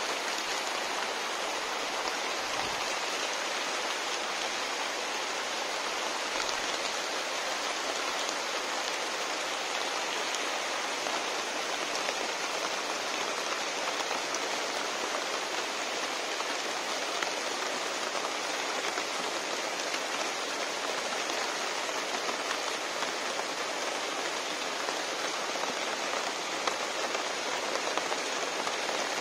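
Steady rain falling on leaves and wet ground, an even unbroken hiss.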